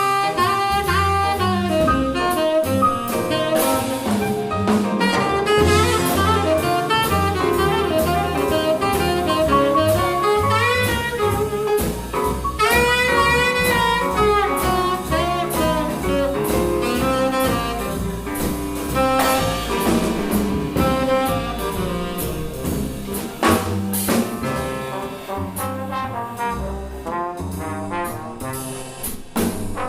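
Small jazz combo playing live: a horn plays fast melodic lines over double bass, piano and a drum kit with cymbals.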